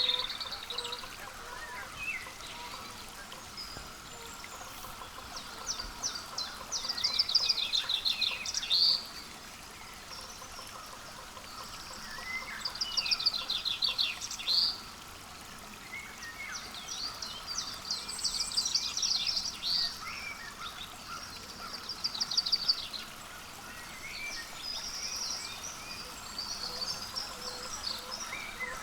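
Small songbirds calling and singing: rapid runs of high notes, each lasting a second or two, come again about every four to five seconds over a faint steady outdoor hum.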